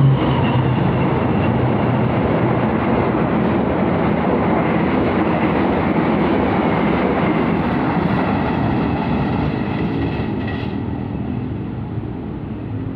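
Argo Cheribon passenger train running on the rails: a loud, steady rolling rumble with faint high squealing tones that stop about three-quarters of the way through. The sound then eases down toward the end.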